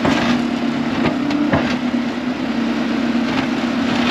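Tractor engine running steadily, with a few short knocks.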